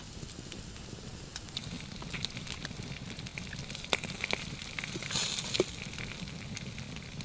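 Campfire crackling, with scattered sharp pops and a denser burst of crackle about five seconds in.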